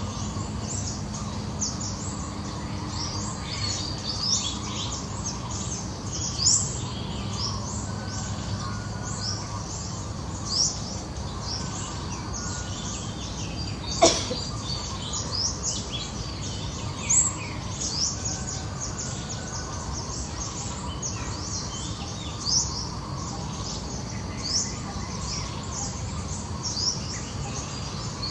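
Birds chirping over a steady outdoor background noise, with many short high calls scattered throughout. One sharp click about halfway through.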